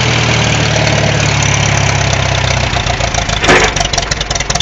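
Farmall M tractor's four-cylinder engine running steadily just after a cold start, then its firing turns ragged about two and a half seconds in, with a loud pop, and the engine begins to die down as it stalls.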